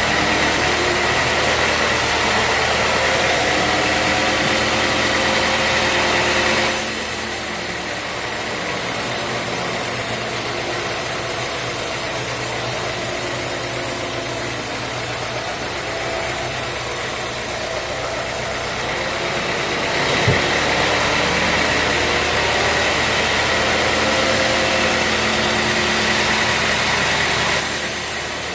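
Sawmill machinery running steadily: a motor hum with a steady high whine. The sound shifts abruptly a few times, and there is one short knock about two-thirds of the way through.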